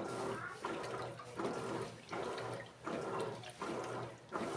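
Electrolux Essential Care 14 kg washing machine agitating a load: water sloshing in the tub, swelling in a regular surge about every two-thirds of a second.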